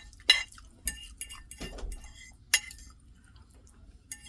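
A fork or other cutlery clinking and scraping against a plate while eating: a few sharp clinks, the loudest just after the start and about two and a half seconds in, with smaller taps between.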